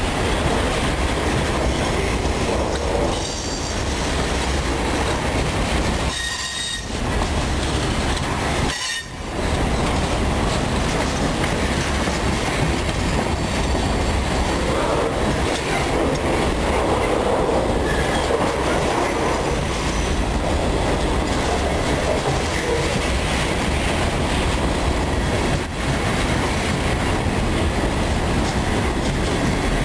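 Freight train of grain hopper cars rolling past, its steel wheels clattering steadily over the rail joints. There are a few brief high wheel squeals.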